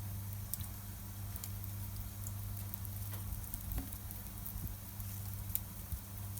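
Campfire crackling, with a few sharp, scattered pops from the burning wood over a steady low hum.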